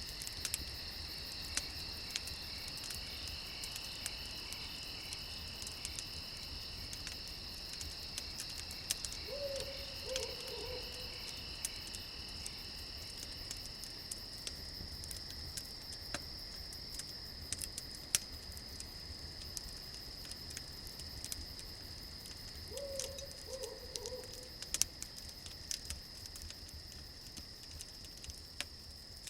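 Crickets chirring steadily while a campfire crackles with scattered sharp pops. Twice, about 13 seconds apart, a short low call falls in pitch, from a night animal.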